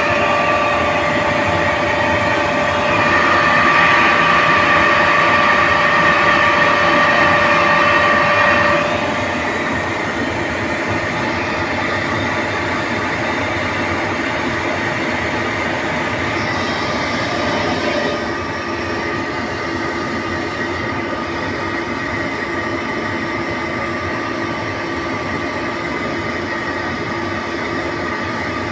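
Ingersoll Rand RMB 30i oil-injected rotary screw air compressor running with a steady mechanical whine made of several fixed tones. The sound drops a step in level about nine seconds in and again slightly about eighteen seconds in.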